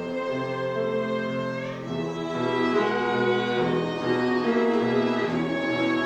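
Instrumental music led by bowed strings, with violin to the fore, holding sustained chords that shift a few times.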